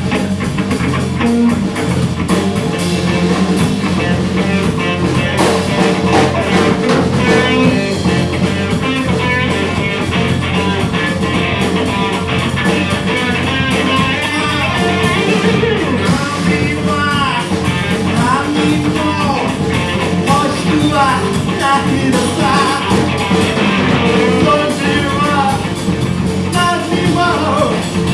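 A live rock band playing a blues-rock number, with electric guitar and drum kit and a singer's voice over them.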